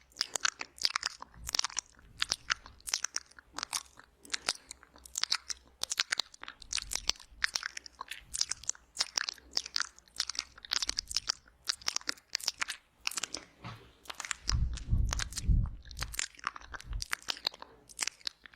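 Wet mouth sounds made right at the microphone for ASMR ear eating: quick crisp lip smacks and tongue clicks, several a second. About two thirds of the way through a deep muffled rumbling joins them.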